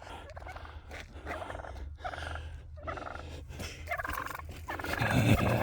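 Turkeys gobbling: repeated rapid, rattling calls, getting louder near the end.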